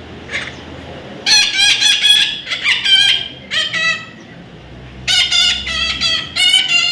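Baby parrot squawking: runs of loud, harsh repeated calls, a cluster about a second in, a short call near the middle, and another run from about five seconds in.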